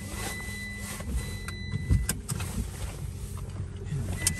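Low steady rumble of a road vehicle, with a few short clicks and a knock about two seconds in.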